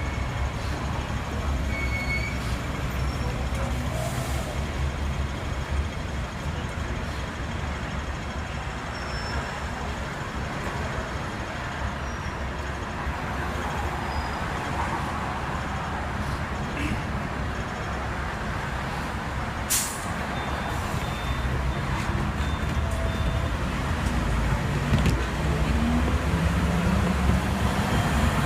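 Hong Kong double-decker tram running along its street track, a steady low rumble of motor and wheels that grows louder near the end. There is a single sharp click about two-thirds of the way through.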